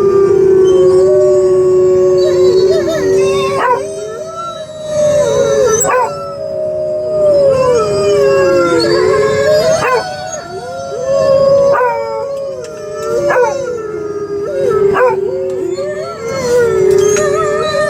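Beagle howling in long, drawn-out howls, joined by the howls of dogs on the truck's radio, so two howling voices often overlap; short sharp yelps break in every few seconds.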